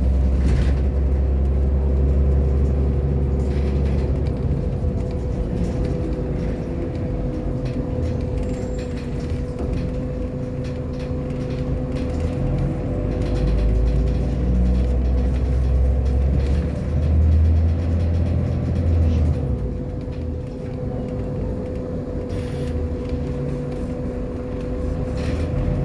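Irisbus Agora L city bus's diesel engine and driveline running on the move, a low rumble with a steady whine over it. The rumble eases off about five seconds in and swells again past the middle, as the engine comes off and back on load.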